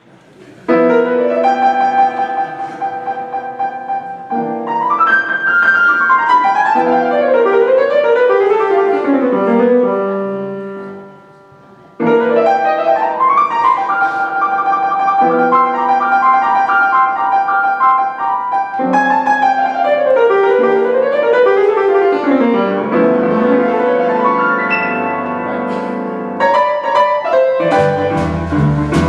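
Solo boogie-woogie piano: repeated, shaken chords in the treble broken by two long descending runs. The playing dies away about ten seconds in and starts again two seconds later, and a rolling low bass line comes in near the end.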